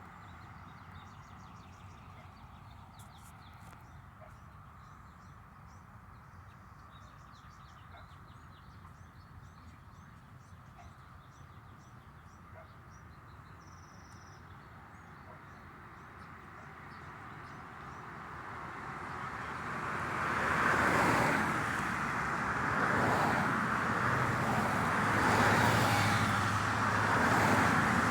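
Road traffic. A low steady hum with faint high chirps, then from about two-thirds of the way in, vehicles pass close one after another, each swelling louder and fading.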